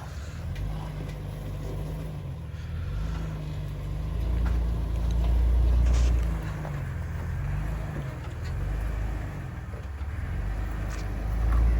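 Off-road 4x4's engine running at low revs as it crawls over rocks, heard from inside the cab, the revs rising and falling with throttle; it swells louder about four to six seconds in and again near the end.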